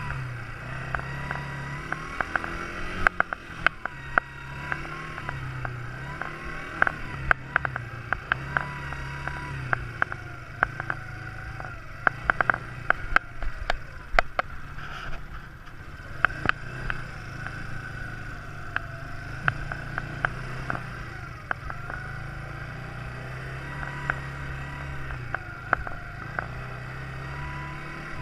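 Quad bike engine running, its pitch rising and falling repeatedly as the throttle opens and closes, with frequent sharp knocks and rattles.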